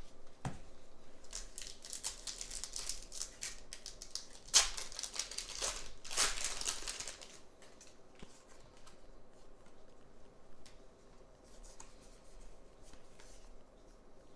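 Crinkling and tearing of thin plastic packaging as trading cards are handled, with dense crackling that is loudest in two bursts around the middle, then a few faint rustles and clicks.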